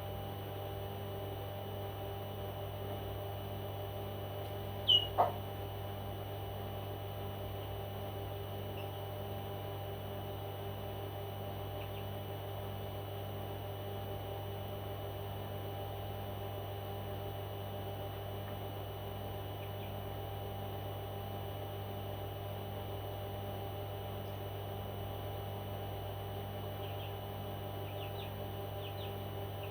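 A pet parrot gives two short, sharp calls about five seconds in, then a few faint chirps near the end, over a steady electrical hum.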